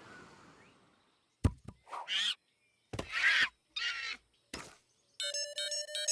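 Cartoon sound effects: several sharp knocks, each followed by a short chirping squeal, then music starts about five seconds in.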